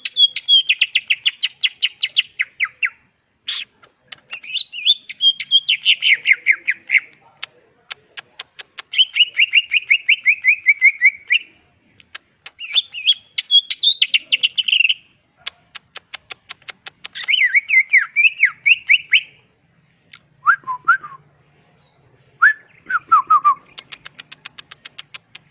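Green leafbird (cucak ijo) singing: fast chattering phrases of rapidly repeated notes, each lasting a couple of seconds and broken by short pauses, mixed with a few lower downward-slurred whistles.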